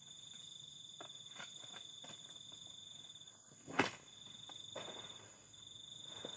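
Crickets trilling steadily at a high pitch, broken briefly by one sharp knock about four seconds in, with a few faint rustles.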